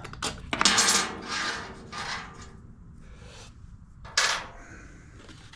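A hand tool and a small generator's cover panel being worked loose: scraping and rubbing with a few knocks, loudest for the first second or so, then quieter handling and one sharp knock about four seconds in.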